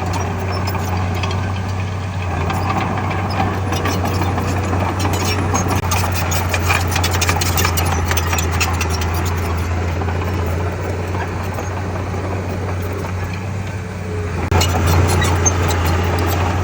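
Heavy earthmoving machinery's diesel engine running steadily, with irregular clattering and knocking over the engine drone. The sound jumps abruptly louder about fourteen and a half seconds in.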